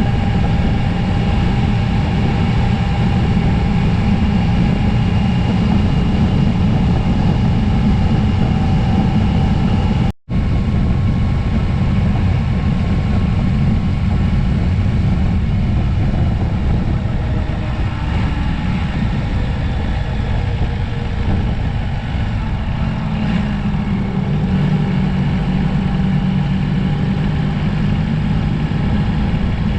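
Motorcycle on the move: a steady rush of wind and engine noise, heavy in the low end, on a camera mounted on the bike. The sound drops out for an instant about ten seconds in.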